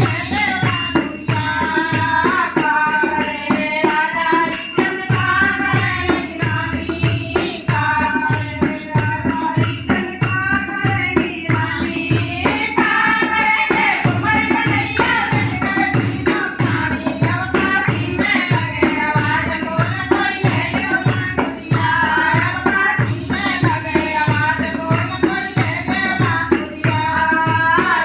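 A langurya devotional folk song sung in a repeating melody over a steady drum beat, with jingling percussion keeping time.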